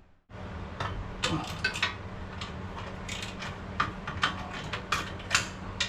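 Irregular metallic clicks and clinks of a socket wrench on a wobble extension being worked on bolts under the truck, over a steady low hum.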